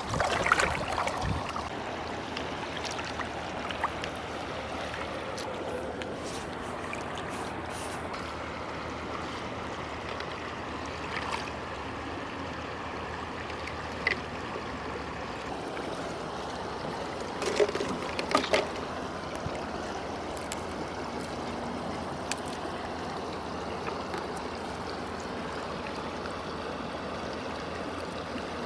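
Steady rushing of river water, with a few short, sharp knocks or splashes just after the start and again about two-thirds of the way through.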